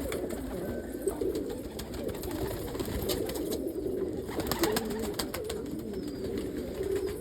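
Several domestic pigeons cooing over one another without a break, with a few light clicks about halfway through.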